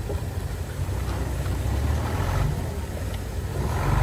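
Diesel engine of heavy earthmoving machinery running, a low steady hum that grows louder about two seconds in and again near the end.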